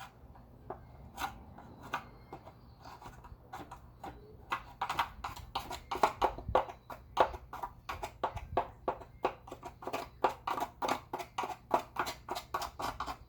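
Vacuum cleaner parts being handled during cleaning: sharp taps and clicks. They come scattered at first, then settle into a quick, regular run of about four a second from about halfway in.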